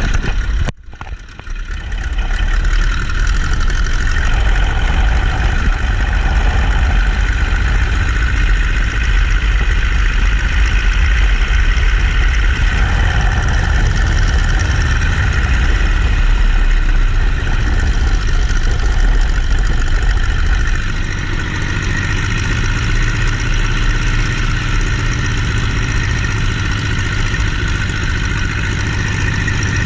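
Boeing-Stearman Model 75 biplane's radial engine running steadily. It dips briefly about a second in, then gets a little quieter and deeper about two-thirds of the way through.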